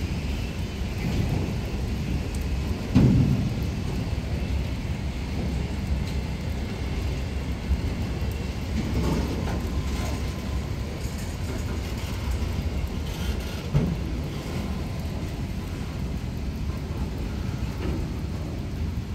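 Freight train rolling past in heavy rain, a steady low rumble with rain noise over it. A few louder thuds break through, the loudest about three seconds in and another near fourteen seconds.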